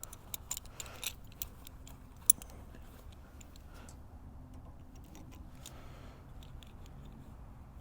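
Metal hand tools, wrenches or sockets, clinking against each other as they are sorted through to find the right size, with a sharp clink about two seconds in and lighter scattered clicks after.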